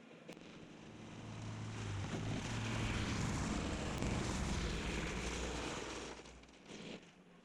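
Kubota L3200 tractor's diesel engine running as the tractor drives past, the sound swelling for a few seconds and then fading away.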